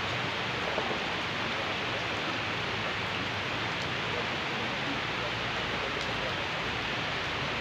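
Rain falling steadily onto pond water, an even, unbroken hiss.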